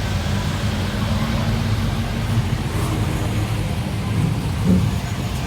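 Car engine idling steadily with a low, even tone.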